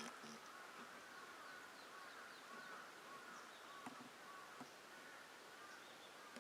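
Faint birdsong: a continuous run of short, repeated notes at one middle pitch, with a few thinner high falling calls in the first half and a couple of light clicks.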